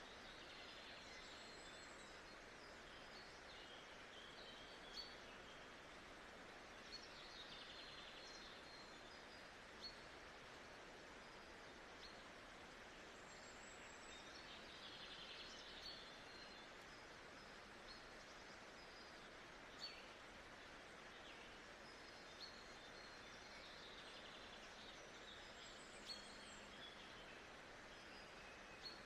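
Faint nature-sound ambience: a steady soft hiss with scattered bird chirps, and a light tick every few seconds.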